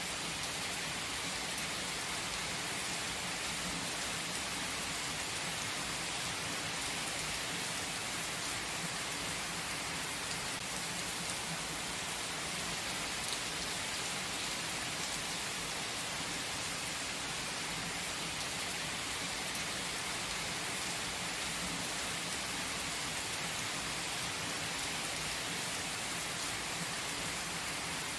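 Steady rain falling on forest trees: an even, unbroken hiss.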